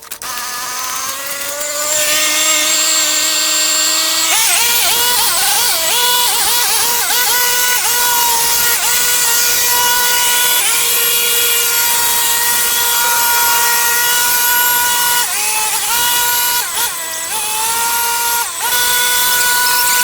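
Small power-tool motor winding up in pitch over the first few seconds, then running steadily at high speed with a few brief dips under load.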